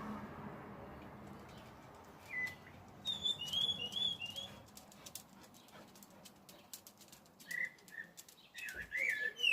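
A mimicking songbird calling in varied bursts: a short whistle, then a quick run of warbled notes, scattered short clicks, and more twisting whistled phrases near the end.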